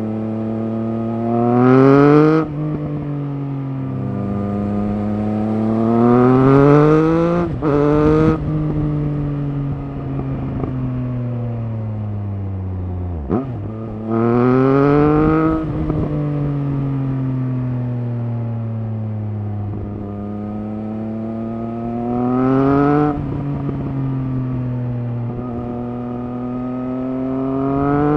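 Triumph Speed Triple RS 1050's inline three-cylinder engine pulling hard through the revs several times, pitch climbing to loud peaks about 2, 7, 15 and 23 seconds in, then falling away as the throttle closes. There is a brief sharp drop in the engine note about 13 seconds in.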